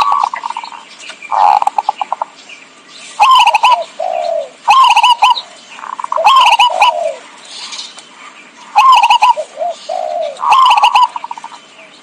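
Zebra dove (perkutut) cooing: a rapid run of rippling, trilled coo phrases, one every second or so with short pauses, used as a lure call.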